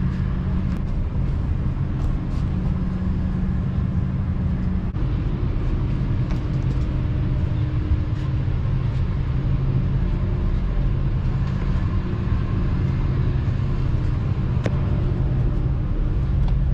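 Steady low hum of an Airbus A330-200 cabin parked before departure, the ventilation running with a couple of steady low tones, plus a few faint clicks.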